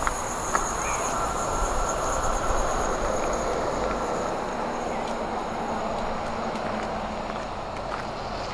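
Stockholm commuter train running: a steady rumble and hiss with a high whine that fades out about two-thirds of the way through, the whole sound slowly dying down.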